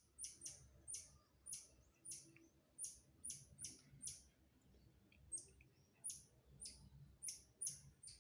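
Small monkeys making bird-like calls: a run of short, very high-pitched chirps, about two a second.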